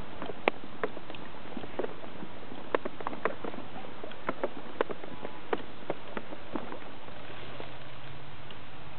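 Kayak paddling: irregular sharp knocks and splashes from paddle and hull, about one or two a second, over a steady rush of water.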